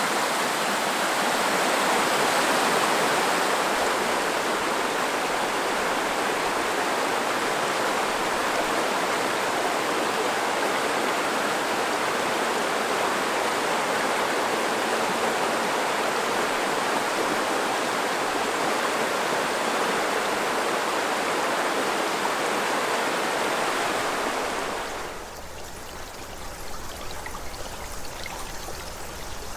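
Azusa River, a clear snowmelt mountain river, rushing in a steady, full babble. Near the end it drops suddenly to a quieter, gentler flow.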